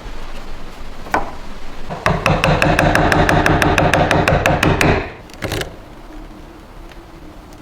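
A rapid, regular mechanical rattle, about eight clicks a second with a hum under it, starting about two seconds in and stopping abruptly after about three seconds, with a single knock before it.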